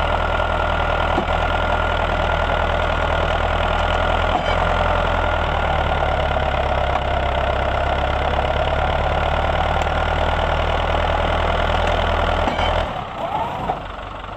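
Tractor engine running steadily at a constant speed; near the end its sound drops away suddenly, leaving a quieter background.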